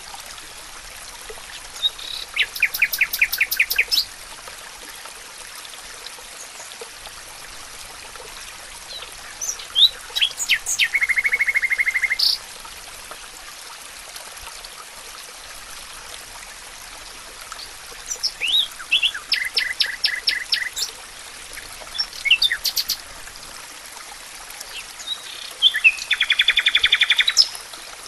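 A songbird singing separate phrases of rapid trilled notes, each a couple of seconds long, repeated every several seconds. Underneath is a steady rush of running water from a stream.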